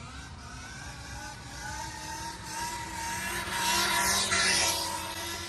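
KTM Freeride E-XC electric dirt bike riding past, its electric motor whining with tyre and wind hiss. It grows louder to a peak about four seconds in, then eases as it goes by.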